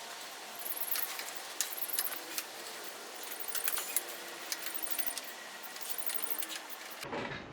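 Hand tools clicking and scraping irregularly on metal and plastic, many small sharp clicks with light rustling, as a stuck fender clip is worked loose.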